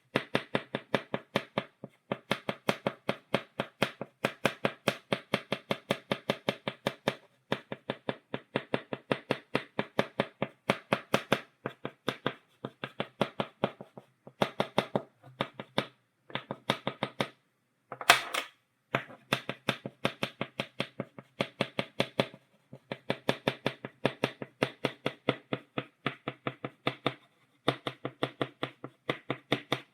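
Chalk tapped against a blackboard in stippling strokes: rapid sharp taps, about six a second, in runs of a few seconds with brief pauses, and one louder stroke a little past halfway.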